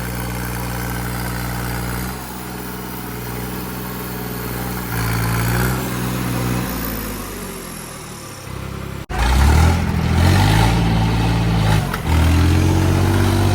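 Tractor diesel engines running hard under load in a tug-of-war pull. The engine note sags for a few seconds, breaks off suddenly about nine seconds in, then comes back louder.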